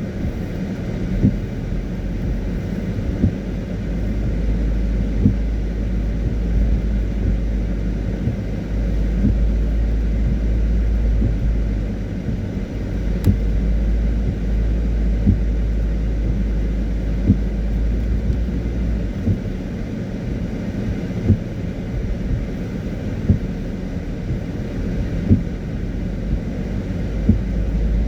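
Car driving on a wet road: a steady low road and engine rumble, heavier for a stretch in the middle, with a short sharp tick about every two seconds.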